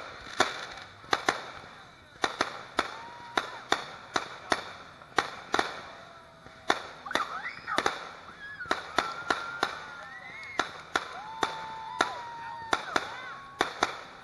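Aerial fireworks going off in quick succession: an irregular string of sharp bangs, about two a second.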